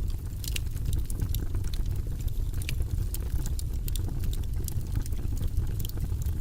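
Wood fire burning in a fireplace: frequent small, irregular crackles and snaps over a steady low rumble of the flames.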